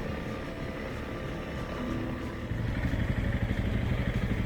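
Dual-sport trail motorcycle engine running under throttle, getting louder and rougher about halfway through.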